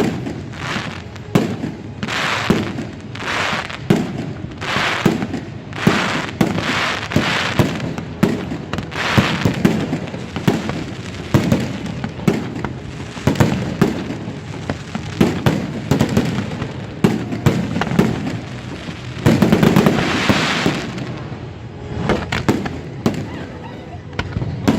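Fireworks display: a steady run of aerial shell bursts, each a sharp bang, many followed by a crackling hiss, with a dense stretch of crackle about twenty seconds in.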